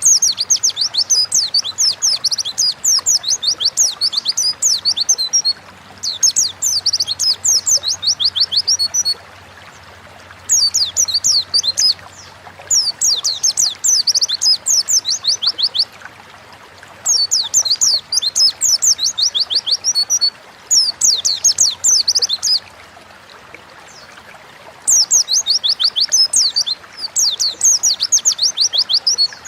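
A white-eye (pleci) in full song: bursts of rapid, high twittering notes, each phrase lasting a few seconds, repeated again and again with short pauses between.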